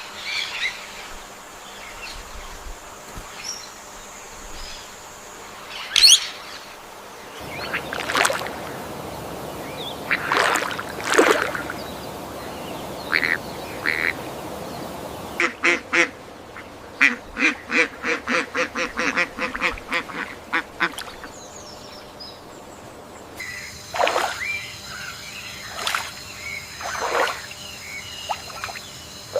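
AI-generated rainforest ambience of assorted bird calls, its background changing abruptly about every eight seconds. In the middle comes a run of rapid, quacking calls, about five a second, lasting some five seconds. Near the end a steady high buzz runs under sparse calls.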